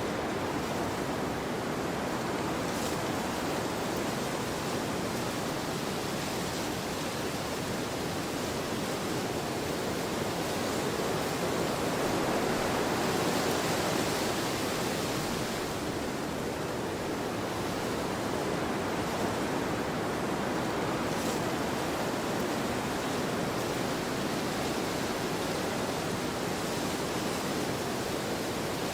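Wind blowing across an open field: a steady rushing that swells a little about halfway through, then eases back.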